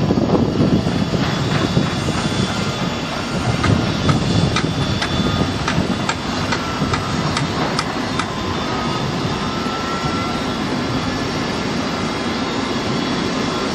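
Electric commuter train (Stadler FLIRT multiple unit) approaching over the station's points: a steady rumble with a run of sharp clicks and clacks from the wheels over rail joints and switches, and a brief faint high tone about ten seconds in.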